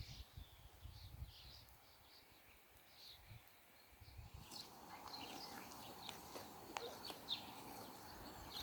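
Faint chirping of small birds, short scattered calls, over a quiet background that grows into a faint even hiss about halfway through.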